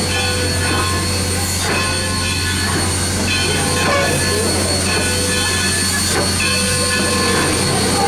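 Excursion train cars rolling on the track, heard from aboard. There is a steady low rumble, thin high wheel-squeal tones, and a sharp knock about every two seconds.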